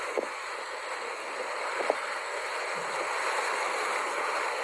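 Steady rush of wind over the microphone, slowly growing a little louder, with a couple of faint short knocks.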